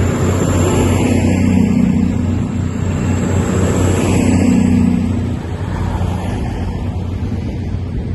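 Train running past, a steady low hum under a rushing noise that eases slightly about five seconds in.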